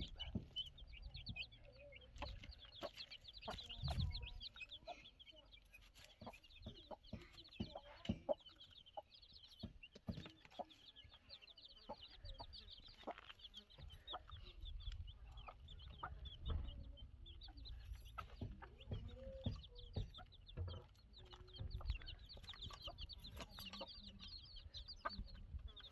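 Chickens clucking and chirping, with many short high calls throughout and scattered light knocks.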